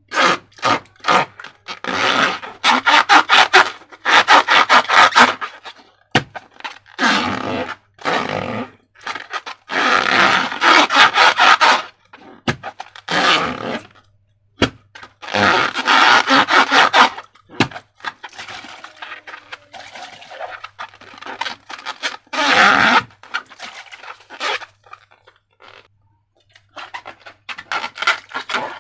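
Slime being squeezed and worked by hand, with wet crackling squelches in irregular bursts of a second or two and short pauses between them.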